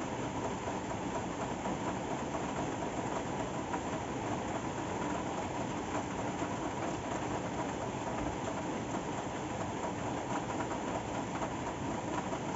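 Steady rain falling, an even hiss with fine specks of drops, unchanging throughout.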